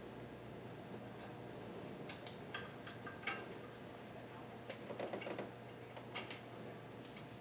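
Faint, scattered metallic clicks and clinks of hand tools and hardware during work on an engine mount, in a cluster about two to three seconds in and another about five to six seconds in, over a low steady hum.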